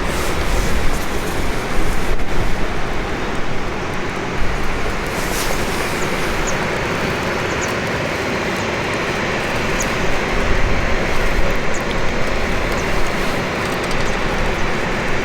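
Wood campfire burning: a steady rushing noise with small, sharp crackles and pops scattered through it.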